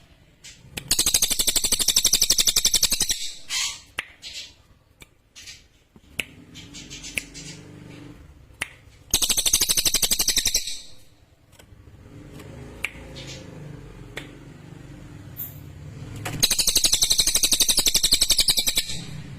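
Cililin songbird singing three bursts of a rapid, high, sharp trill, each about two seconds long, with pauses of several seconds between them.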